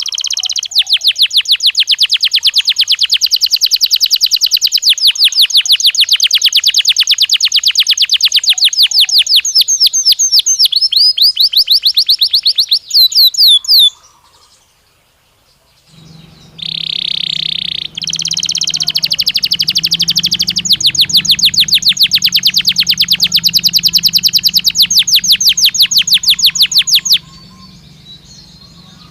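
Domestic canary song in two long phrases, each opening with a held whistled note and running into fast rolling trills of rapidly repeated notes, with a brief pause about halfway through. A low steady hum sits under the second phrase.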